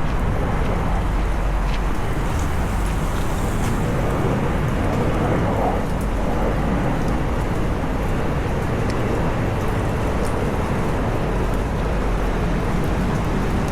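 Steady rain on a city street mixed with road traffic noise: an even wash of sound with scattered faint drop ticks.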